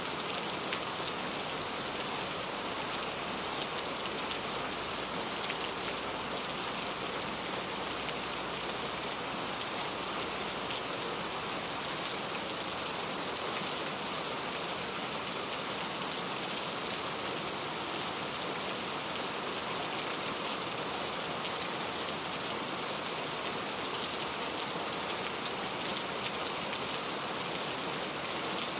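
Steady rainfall, an even hiss of rain with many fine drop ticks, unchanging throughout.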